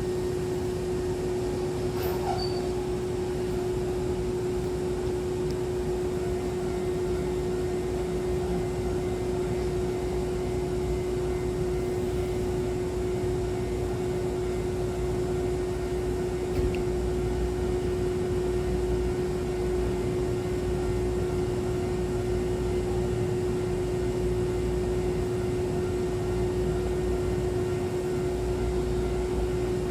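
Steady hum from a Hankyu Kobe Line train standing at a station platform: a constant low-middle tone over an even whirring hiss, like the train's air conditioning and electrical equipment running.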